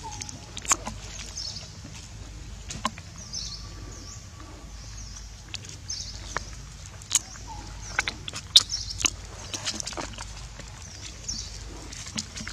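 Small birds chirping over and over in short high notes, with scattered sharp clicks and crackles from a soy milk carton being handled while a baby macaque sucks on its straw.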